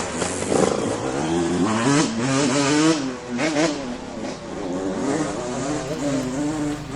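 Single-cylinder Husqvarna 701 motorcycle engine running under way, its pitch rising and falling with the throttle.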